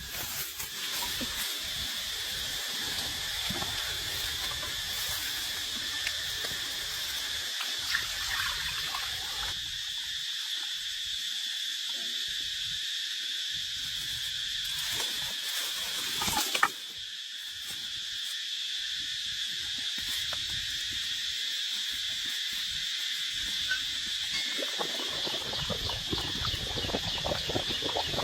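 Insects buzzing in a steady, high, even drone, with scattered clicks and handling sounds in the first third and near the end, and one sharp click about seventeen seconds in.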